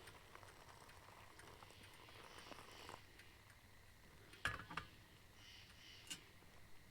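Faint night chorus of peepers calling in the trees, with a sharp click about four and a half seconds in and a smaller one near six seconds.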